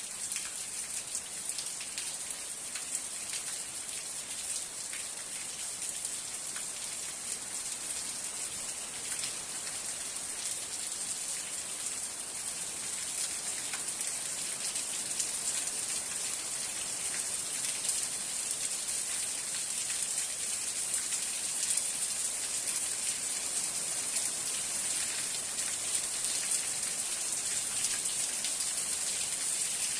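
Steady rain falling, a continuous hiss of many fine drop ticks, a little heavier in the second half.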